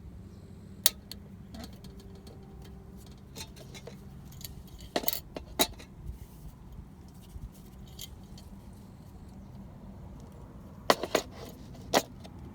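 Scattered sharp clinks and knocks of small hard objects being handled: one about a second in, a few around the middle, and a quick cluster near the end.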